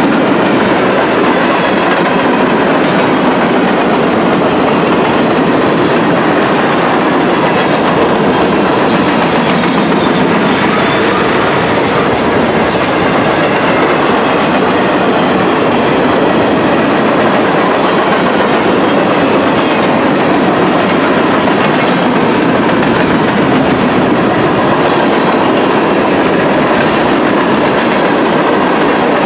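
Freight train cars rolling past close by: steady, loud wheel-on-rail noise with the clickety-clack of wheels over rail joints. A few sharper clanks come about twelve seconds in.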